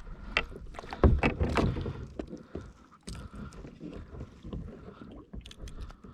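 Irregular knocks and rattles against a plastic Hobie Revolution 13 kayak as a hooked moray eel is handled and worked free of the line, the heaviest knocks about a second in.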